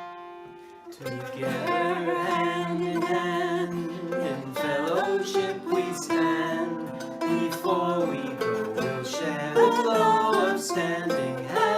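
Closing circle song: a plucked string instrument plays, and singing with the instrument's accompaniment starts about a second in and carries on.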